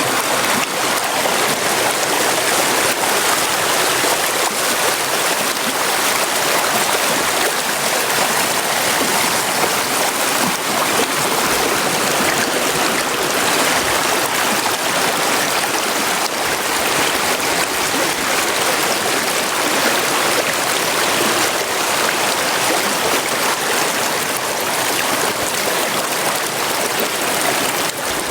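Flowing river or brook water rushing steadily over rocks, a dense even wash of sound.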